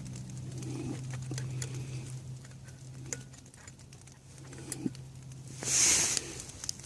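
Light rain pattering with scattered small clicks and taps of gear being handled, over a faint steady low hum; a brief rustle of handling near the end.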